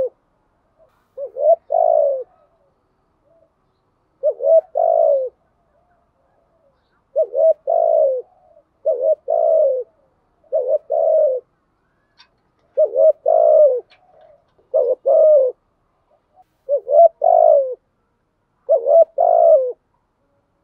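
Spotted dove cooing: about nine short phrases of a few low, rounded coos each, repeated roughly every two seconds.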